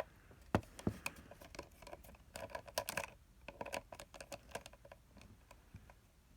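Small screwdriver bit working at a screw in a plastic charger case: scattered light clicks and taps, with a denser run of scratchy clicking about two and a half seconds in. The cheap bit fits poorly and does not get the screw to turn.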